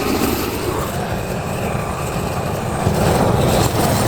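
Engine-powered snow-clearing machine running loud and steady, with a dense, rumbling low end; it gets slightly louder about three seconds in.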